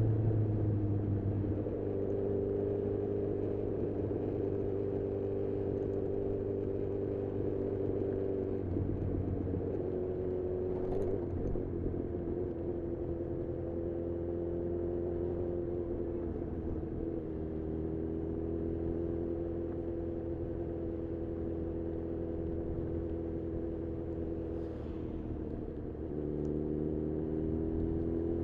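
2018 Honda CB1000R's inline-four engine running through a full-system aftermarket exhaust while riding. Its note holds steady between several step changes in pitch, up or down, as throttle and gear change.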